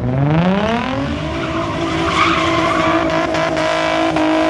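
Car engine revving up over about a second and held at high revs, with tyres squealing, as in a burnout. The revs drop suddenly at the very end.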